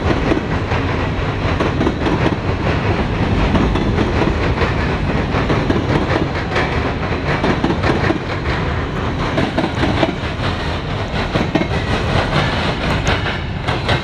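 Freight train of covered hopper cars rolling past close by: a steady rumble of steel wheels on rail, with a dense run of clicks as the wheels cross rail joints.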